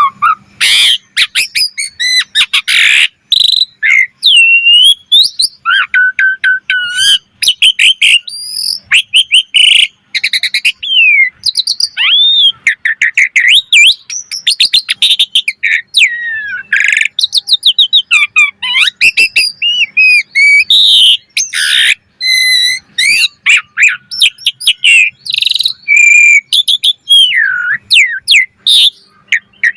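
Asian pied starling singing a long, varied song without pause: clear whistles that glide up and down, mixed with harsh rasping notes and quick chattering phrases.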